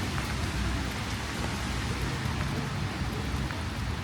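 Steady rain falling in a city street, an even hiss with a low rumble underneath.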